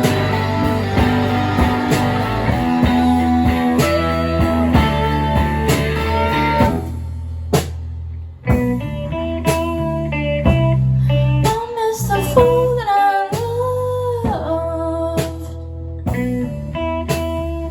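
Live indie rock band playing an instrumental passage: electric guitars, bass and drums, full and dense at first, then thinning out after about six seconds into a sparser section with held and gliding notes over the bass.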